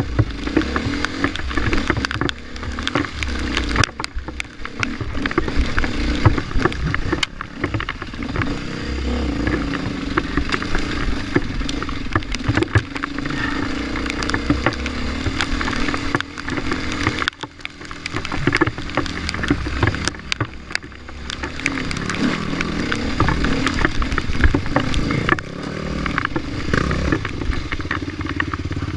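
Enduro dirt bike engine running and revving up and down on a rough trail, with frequent knocks and clatter from the bike; the engine eases off briefly about two-thirds of the way through.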